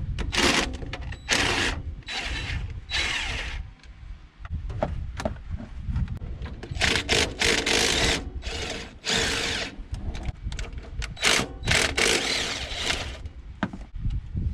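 A wrench or driver working bolts loose on the throttle body and intake of a Ford 302 V8: a string of short spells of tool noise, one after another with brief pauses.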